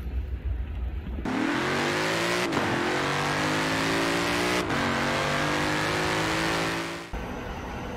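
Car engine accelerating hard through the gears. Its pitch climbs, drops at two gear changes about two and a half and four and a half seconds in, and cuts off suddenly about seven seconds in.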